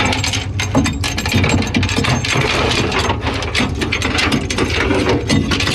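Metal clanking and clicking from tow chains and hooks being handled on a flatbed tow truck, over the steady hum of the truck's idling engine.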